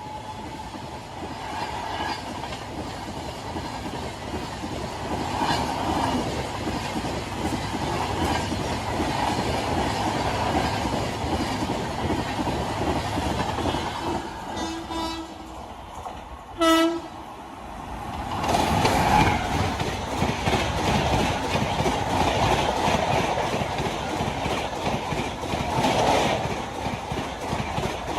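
Indian Railways express train running on the rails with steady wheel clatter and rumble. A short, loud horn blast sounds about two-thirds of the way through, after which the rumble grows louder.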